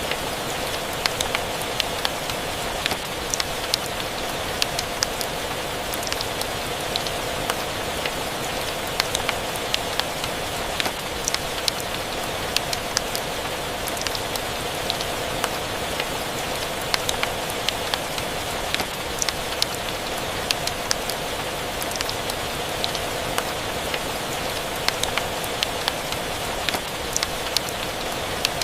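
Steady rain ambience mixed with a wood fire crackling: an even hiss of rain with frequent sharp crackles, a few every second.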